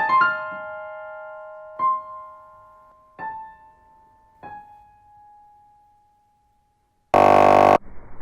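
Piano playing slowly: a chord, then three single notes about a second and a half apart, each left to ring and die away. About seven seconds in, a loud buzzing tone sounds for under a second.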